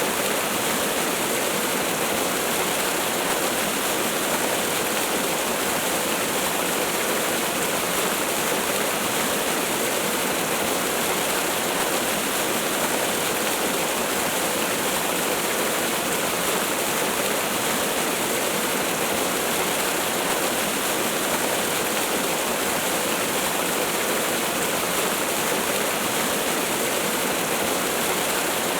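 Waterfall: falling water making a steady, even rush of noise with no change.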